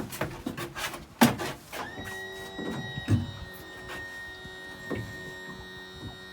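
A few sharp knocks and clatter, then about two seconds in a pot hauler starts up and runs with a steady, even whine and hum as the pot line is hauled in.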